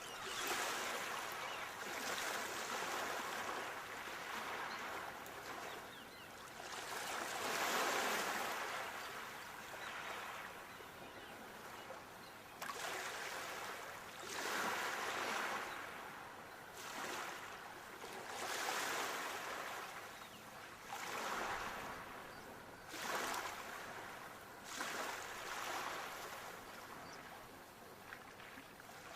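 Sea waves washing onto the shore, a steady hiss of surf that swells and falls back every few seconds, some waves breaking more sharply than others.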